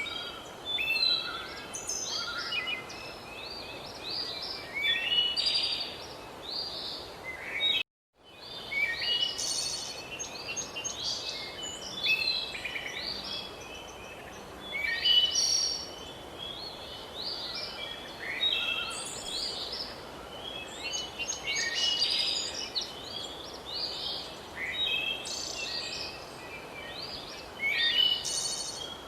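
A chorus of many songbirds chirping and trilling, dense and overlapping, over a steady background hiss. The sound cuts out completely for a moment about eight seconds in, then the chorus resumes.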